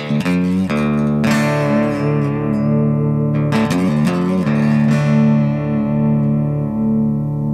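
Guitar strumming chords: a few strums early on, then a final chord left ringing and slowly fading for about three seconds.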